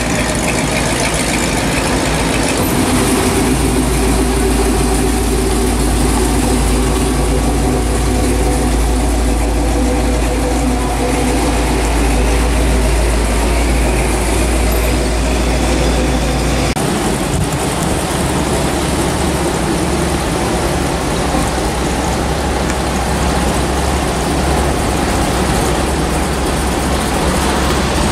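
Classic hot rod and muscle car engines running at low speed as the cars cruise past one after another. The sound changes abruptly about two-thirds of the way through.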